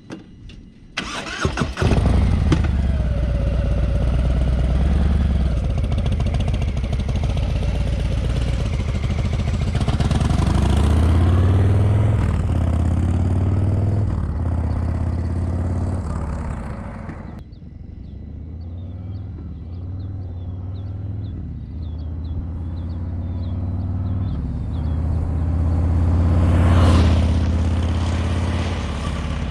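Harley-Davidson Breakout's V-twin engine started about a second in, catching and running with a deep, uneven exhaust pulse. It then pulls away, revving up and through the gears, eases off about halfway, and accelerates again near the end.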